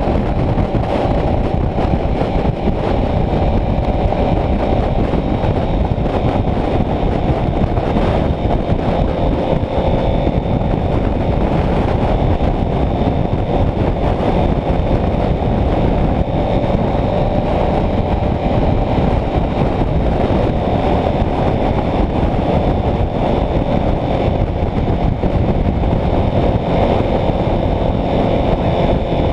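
Honda CBR650F's inline-four engine running steadily under heavy wind buffeting on the microphone, with no change in engine pitch.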